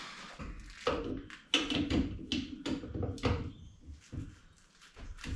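A series of irregular sharp knocks and clatters, eight or nine strikes spread unevenly, from parts and tools being handled during hand disassembly work on a truck.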